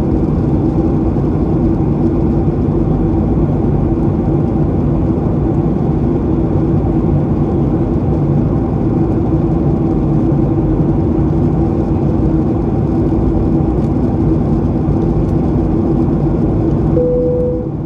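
Steady cabin drone of a Boeing 737-800 in flight, the CFM56 engines and airflow rumbling with a low hum. Near the end the drone eases slightly and a short clear tone sounds.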